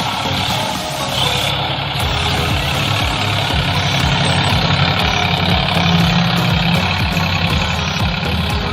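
Tractor engine running steadily with a continuous low hum.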